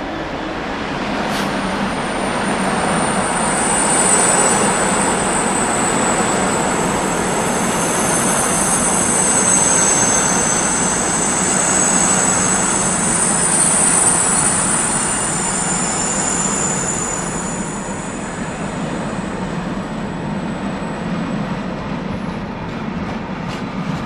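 Freight train of empty china clay tank wagons rolling past behind a Class 66 diesel locomotive, a steady rumble of wagon wheels on the rails. Several high-pitched wheel squeals sound over it for most of the pass, dying away near the end.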